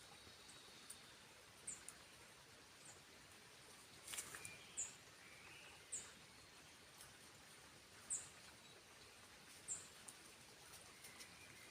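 A bird's short, high-pitched chirps, single notes repeated every second or two, over a faint steady hiss.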